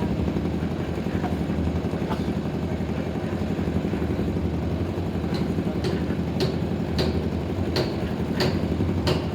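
Cement mixer's diesel engine running steadily after being started. From about halfway through, a run of sharp clicks comes about twice a second over the engine.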